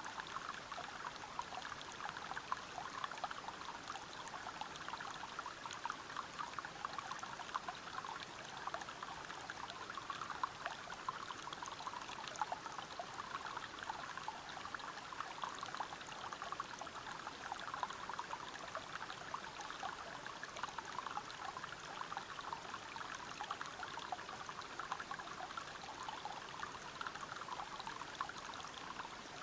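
Stream water splashing and tumbling over rocks at a small waterfall: a steady, dense splashing with no breaks.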